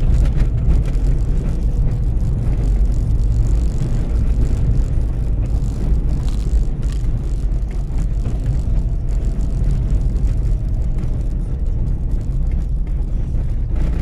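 Car driving on a rain-wet road: a steady low rumble of engine and tyres.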